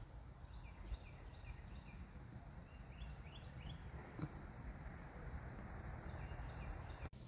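Faint outdoor ambience with distant birds calling: small series of short, high, downward chirps, about a second in and again around three seconds in, over a low rumble. A faint click a little past four seconds.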